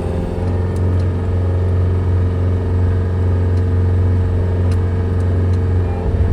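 An engine running steadily at a low, even speed, with a few faint clicks over it.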